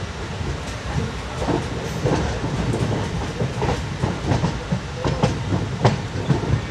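LHB passenger coach running at speed: a steady low rumble of steel wheels on rail, with irregular clicks and clacks as the wheels cross track joints, and one sharper clack near the end.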